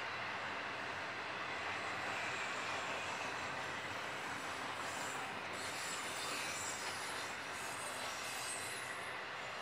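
Double-stack container freight train rolling past at speed: a steady, continuous noise of steel wheels running on the rails.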